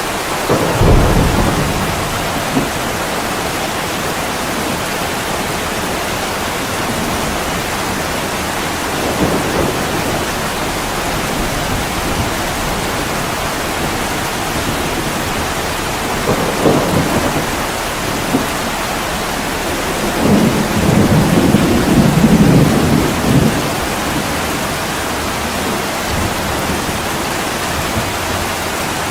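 Steady heavy rain pouring on a window, with low rumbles of thunder: a sharp, loud one about a second in, two weaker ones near the middle, and a longer rolling rumble about two-thirds of the way through.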